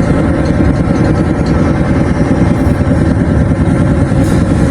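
An engine running steadily, with a loud, even low rumble and a faint steady hum above it.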